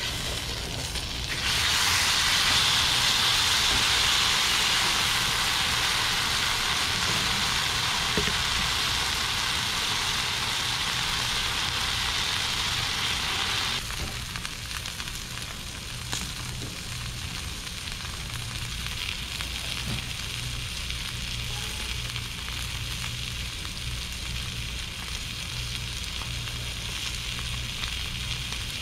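New York strip steak and steak fries sizzling on a Blackstone griddle. The sizzle jumps louder about a second in, as the spatula turns the steak onto the hot plate, and stays loud before dropping suddenly about halfway through to a softer, steady sizzle.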